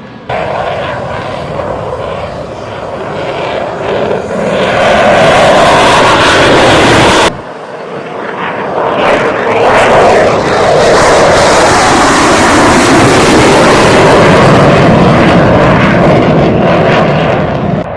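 Loud engine noise of an aircraft passing close, building up and staying loud, with abrupt cuts about a third of a second in and about seven seconds in where separate shots are spliced together.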